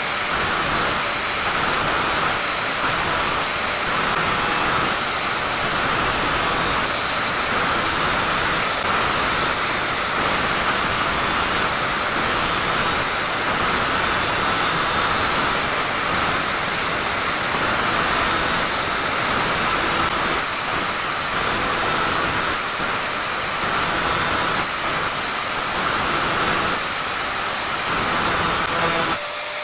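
Angle grinder running steadily with a hissing grinding noise and a steady whine, as it grinds the teeth of a hand saw to sharpen them.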